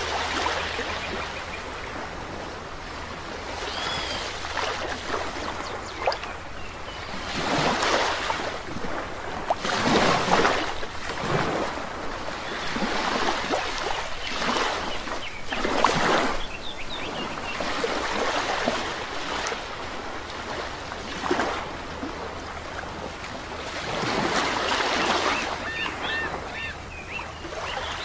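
Sea waves washing onto a shore, swelling and falling away every few seconds, with a few faint high bird chirps.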